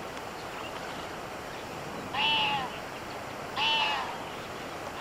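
Two short calls from a wild animal, a bit over a second apart, each an arched note that rises and falls over about half a second, over a steady background hiss.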